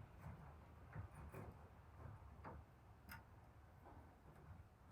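Near silence with a few faint, scattered clicks: small handling noises of a metal hinge being held and positioned against a wooden cupboard.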